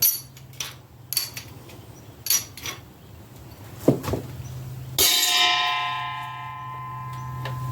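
Small block Chevy 350 roller lifters being pulled from the block: several light metal clicks and clinks, then about five seconds in a sharp metallic clang, a lifter dropping into the metal bucket, which rings out and dies away over about two seconds.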